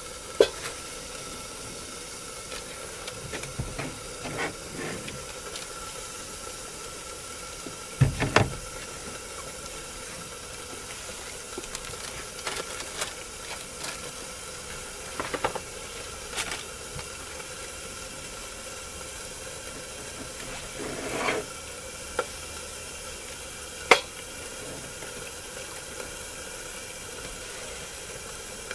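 Burgers sizzling in a lidded stainless steel pot on a small camp stove, a steady hiss throughout. A few sharp knocks and clicks stand out, the loudest about eight seconds in and again near the end.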